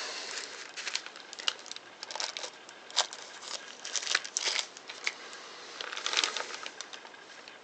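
Small cardboard box and packaging being opened and handled: irregular crinkling and rustling with scattered light clicks.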